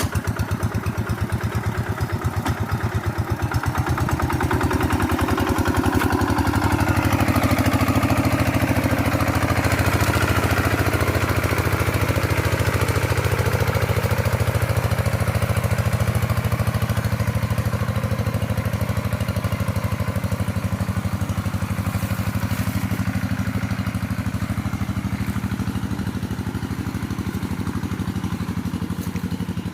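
Two-stroke chainsaw engine running steadily. It picks up a little, louder and brighter, from about four seconds in, then settles back over the last ten seconds or so.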